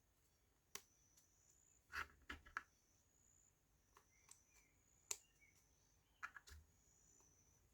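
Faint clicks and taps of small laser-cut wooden tiles being pushed into their frame: a few scattered knocks, with short clusters about two seconds in and about six seconds in.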